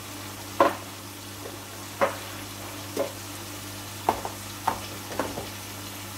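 Chicken and potato pieces frying in oil in a wok, a steady sizzle with about six sharp ticks scattered through it and a low steady hum beneath.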